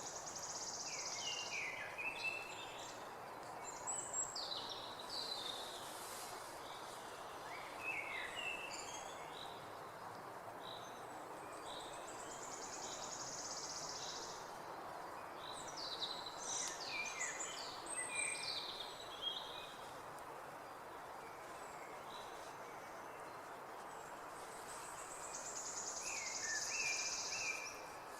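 Wild birds singing outdoors: clusters of short, quick falling chirps, with a high buzzing trill that comes back three times, over a steady background hiss of natural ambience.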